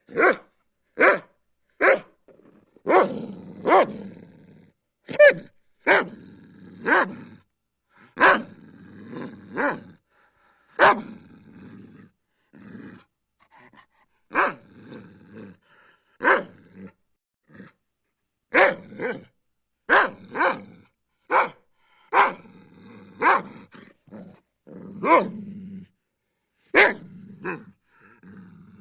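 Dog barking again and again in short, sharp barks at uneven spacing, often in pairs about a second apart. A quieter, low, growl-like sound fills some of the gaps.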